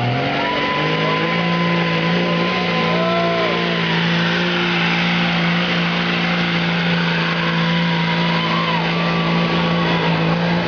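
Diesel pickup truck engine held at steady high revs under load, pulling the sled down the track.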